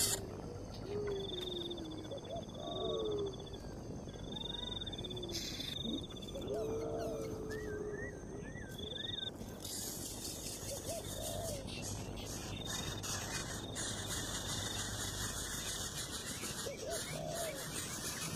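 Birds giving short, low, hooting calls every few seconds over a steady outdoor background, with bursts of a high, buzzing insect trill in the first half.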